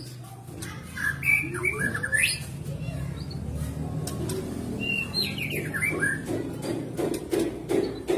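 White-rumped shama (murai batu) singing in short phrases of quick rising and falling whistled notes, with a run of quick low pulsed calls near the end.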